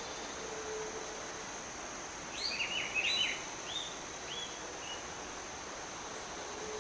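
Forest ambience: a bird sings a phrase of quick chirped notes about two seconds in, the notes thinning and fading over about two seconds. Under it runs a steady high insect drone and a constant hiss.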